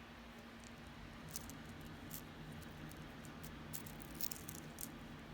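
Faint scattered clicks and light rattles of costume jewelry being handled, over a steady low electrical hum.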